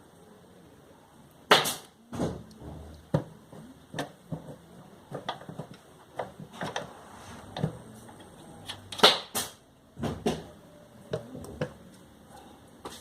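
Irregular clicks and knocks of tools and small metal parts being handled during a sewing machine motor repair, with two louder sharp knocks, one about a second and a half in and one about nine seconds in.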